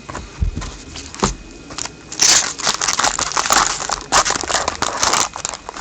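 Crinkling and rustling of a trading-card pack wrapper and cards being handled, after a couple of soft knocks in the first second or so.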